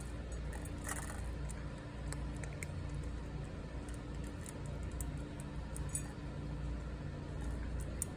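Cat crunching dry kibble: scattered short, crisp clicks over a steady low hum.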